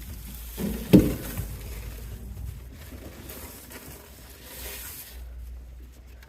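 Feed pellets being dumped out, with a light pattering rattle, after a thump about a second in.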